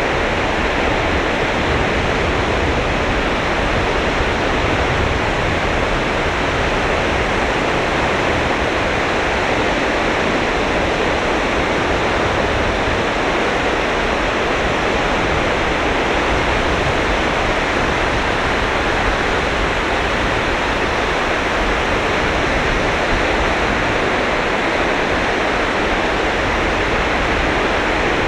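Surf on the beach: a steady, even roar of waves with no distinct single breakers standing out.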